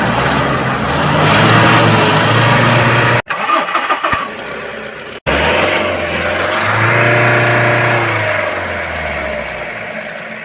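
Mahindra Bolero Pickup BS6 diesel engine revved twice, rising and settling back, running smoothly without the stuttering cut-cut-cut now that a new fuel metering valve has been fitted. The sound drops out briefly twice between the revs.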